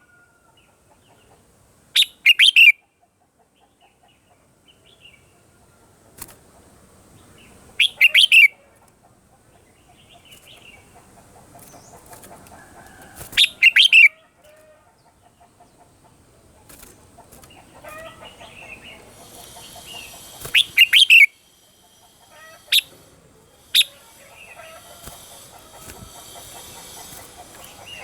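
Red-whiskered bulbul singing: four short, loud, bright song phrases, each well under a second, spaced several seconds apart.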